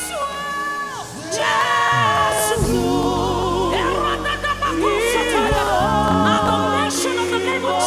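Live gospel worship music: singing with vibrato and long held notes over a steady low accompaniment.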